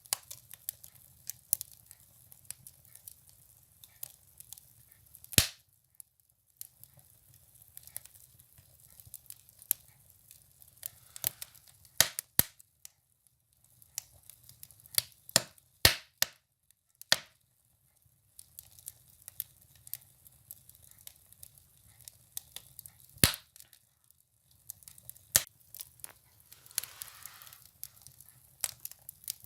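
Firewood burning in a wood stove, crackling with irregular sharp pops, a few of them loud. A soft hiss rises briefly twice.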